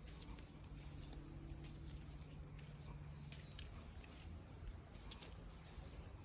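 Birds chirping faintly in short, scattered calls, over a low steady hum.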